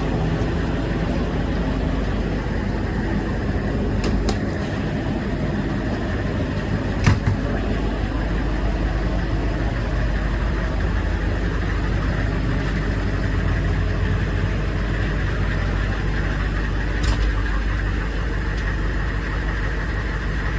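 Chevrolet food truck's engine idling steadily, with a few light clicks and one short knock about seven seconds in.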